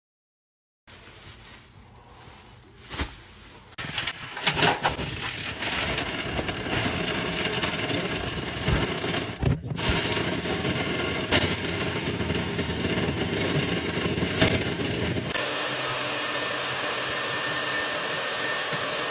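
Vent-cleaning vacuum running steadily, pulling lint through a dryer vent duct, with a few sharp knocks of debris or the hose. It starts up about four seconds in after a click, and its tone shifts a little near the end.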